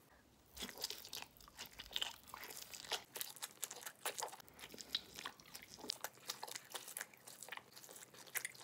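A person biting into and chewing a whole seared wagyu steak coated in spice rub: a close, rapid run of small clicks and crackles that starts about half a second in.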